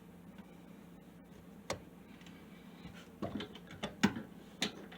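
Plastic and metal sink drain parts clicking and knocking as the pop-up drain pivot rod is lined up with the hole in the drain pipe, a few separate taps with the loudest near the end.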